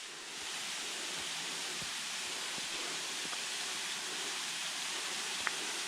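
Small waterfall running lightly: a steady rush of falling water that swells about half a second in.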